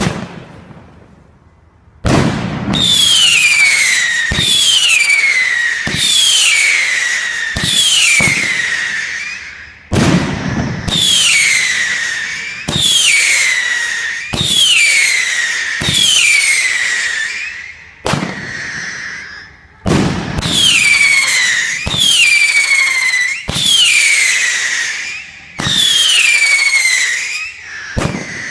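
UFO firework cake firing: a shot about every one and a half to two seconds, each a sharp crack followed by a whistle that falls in pitch, repeated about fifteen times.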